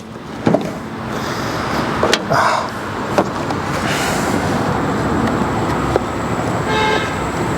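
Steady rushing noise of a passing vehicle, growing louder, with a few sharp clicks and a brief pitched toot about seven seconds in.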